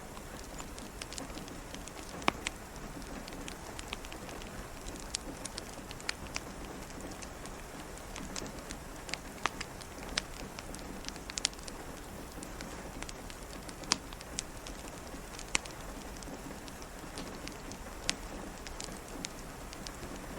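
Steady rain hiss with a fireplace crackling over it: scattered sharp pops at irregular intervals, a few standing out clearly.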